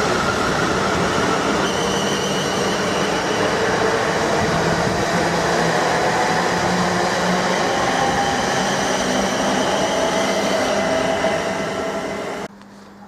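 A train passing close by, a loud steady rumble with a faint ringing whine over it, cutting off suddenly near the end.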